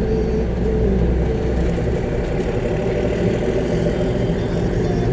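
Concrete mixer truck's diesel engine running, heard from inside the cab: a steady low rumble that eases a little about two seconds in.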